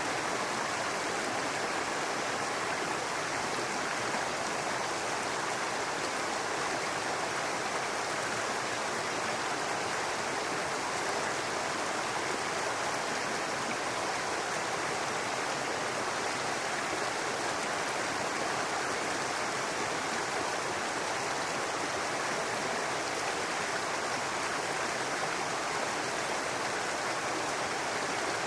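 A babbling brook: water running steadily over rocks in a continuous rushing burble, with no change in level.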